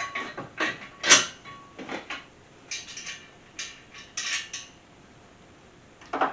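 Steel bolts, washers and nuts clinking against the thin steel of an engine stand as they are fitted by hand: a string of short metallic clicks and clinks, the loudest about a second in, dying away after about four and a half seconds.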